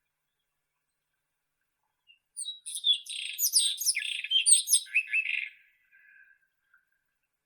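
White-throated robin singing one phrase of quick, varied high notes, starting about two seconds in and lasting about three seconds, with a few faint notes trailing after it.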